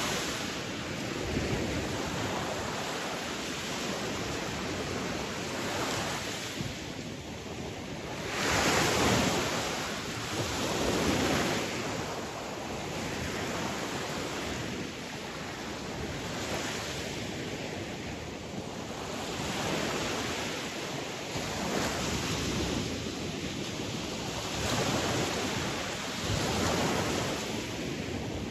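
Sea waves breaking and washing on a shore, a steady surf noise that swells and ebbs every few seconds, the biggest swell about a third of the way in.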